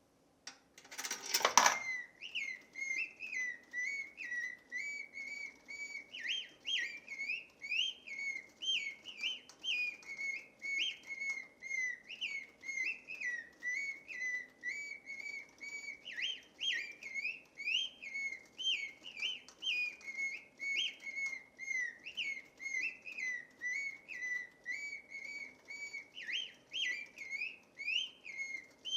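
Coin-operated singing bird automaton: a brief loud rattle about a second in, then a mechanical bird whistle warbling on in quick chirping phrases that pulse about twice a second, over a faint steady hum.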